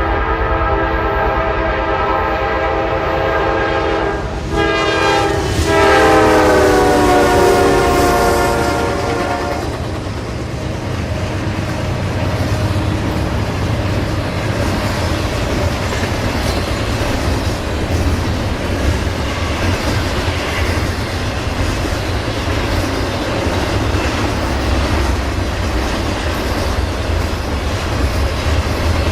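A diesel locomotive's horn sounds a chord of several notes, with a short break about four seconds in. It sounds again until about ten seconds in, its pitch dropping as the train passes. The train then rolls by with a steady rumble and the clatter of wheels on rail joints.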